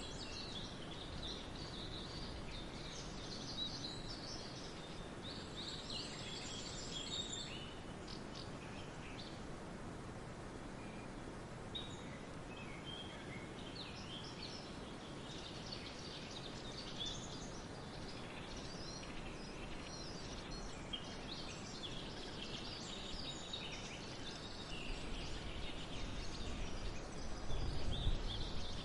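Forest ambience: several songbirds chirping and trilling on and off over a steady outdoor hiss. A low rumble swells near the end.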